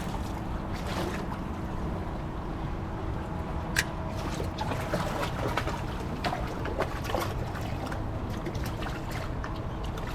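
Water trickling and lapping around a fishing kayak, with scattered small clicks and knocks and one sharper click about four seconds in.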